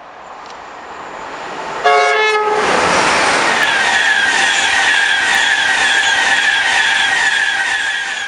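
Express passenger train sounding a short two-tone horn about two seconds in, then passing at speed close by. It makes a loud rush of wheel and rail noise with a steady high whine, which drops away just at the end.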